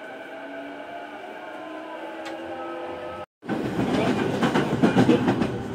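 Sotetsu 12000 series electric train heard from inside the car: steady running noise with several whining tones that slowly shift in pitch. After a brief break, a loud rushing and rapid rattling as an oncoming train of the same type passes close alongside.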